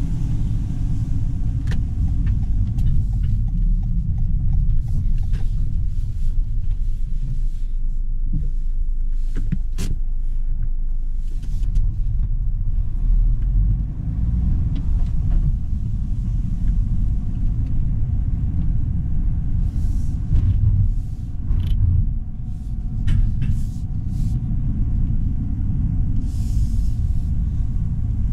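Toyota GR Yaris's stock turbocharged 1.6-litre three-cylinder G16E-GTS engine running at low, fairly steady revs while driving, a deep rumble with a few brief dips in level and occasional sharp clicks.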